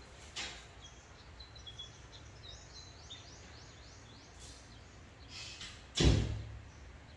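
A bird calling in a quick series of short rising chirps during the first few seconds, then a single loud thump about six seconds in, over a steady low hum.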